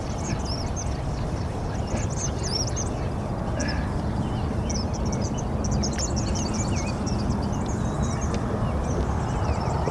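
Small birds chirping, many quick high-pitched calls overlapping, over a steady low rushing noise.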